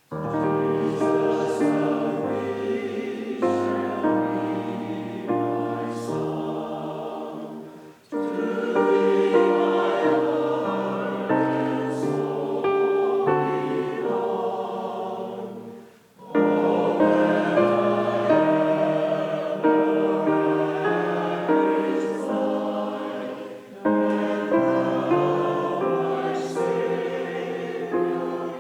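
Choir singing in several voice parts, with short breaks between phrases about every eight seconds.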